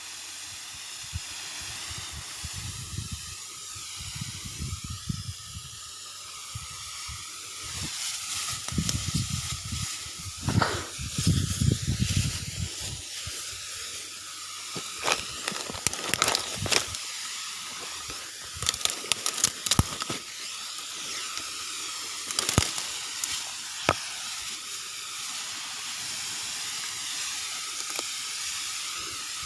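Robotech four-stroke mini power sprayer running and spraying: a steady hiss of spray over a steady high tone from the machine, with scattered knocks and low thumps from handling.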